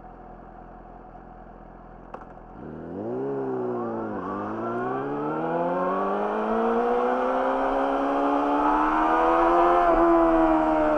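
Yamaha YZF-R6 inline-four through an Akrapovic slip-on exhaust, ticking over at low revs, then pulling away: the revs climb, drop sharply with an upshift about four seconds in, then rise steadily and grow louder before easing off near the end.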